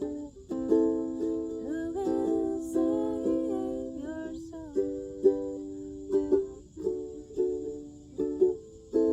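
Ukulele strummed in chords, a fresh chord struck every half second or so.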